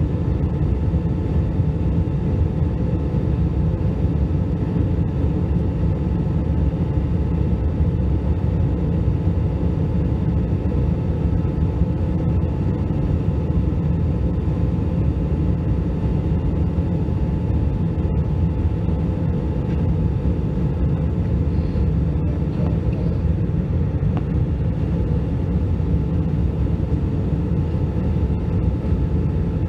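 Steady cabin noise of an Airbus A319 in flight: a constant rumble of jet engine and airflow with a faint steady hum on top.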